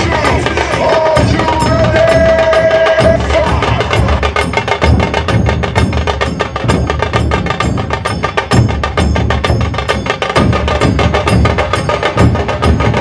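Dhol Tasha ensemble drumming: the high, dry tasha snare drums play a fast, dense roll of strokes over deep dhol beats. A held tone sounds over the drums for about the first three seconds.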